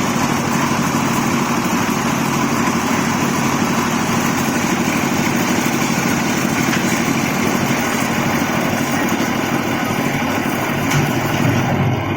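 A small engine running steadily, with an even hum throughout and a slight swell in its low end near the end.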